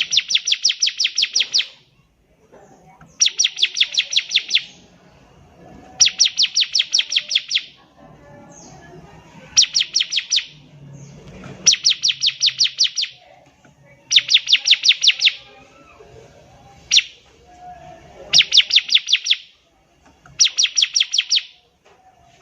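Bar-winged prinia (ciblek) singing: short bursts of rapid, evenly repeated high chipping notes, each burst lasting a second or so and coming about every two seconds, with one lone sharp note between them.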